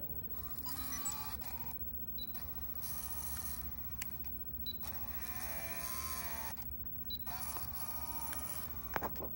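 Old digital camera beeping and whirring: short high beeps, each followed by the motor of the zoom lens whirring for a second or two. This happens about three times.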